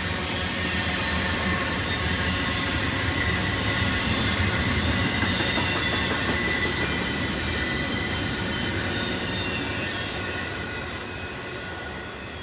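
Double-stack intermodal container well cars rolling past on jointed or welded track, a steady rumble of wheels on rail with thin high-pitched wheel squeal coming and going. The sound fades over the last few seconds as the end of the train moves away.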